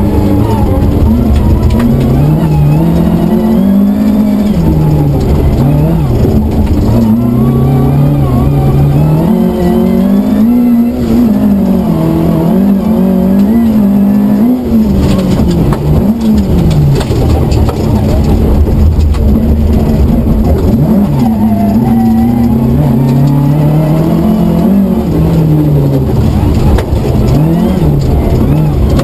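Rally car engine heard from inside the cabin while driven hard on a stage, revs climbing and dropping again and again through gear changes and corners.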